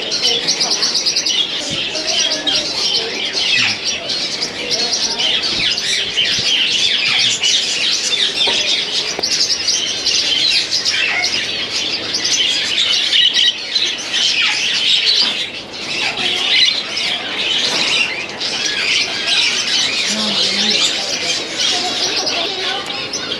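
Many caged birds chirping and calling at once, a dense, continuous high-pitched chorus.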